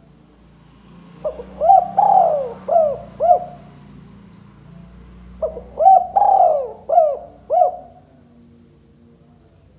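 Spotted dove (tekukur) cooing: two phrases of about five coos each, the second starting about a second and a half after the first ends.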